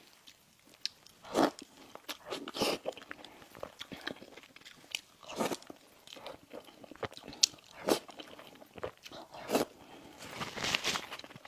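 Close-miked eating: crisp bites into a crunchy pastry followed by chewing, a string of separate crackles at uneven spacing, with a denser run of crunching near the end.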